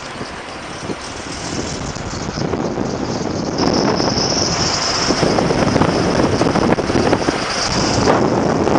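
Steady rushing noise of wind and road while travelling, growing louder about three and a half seconds in.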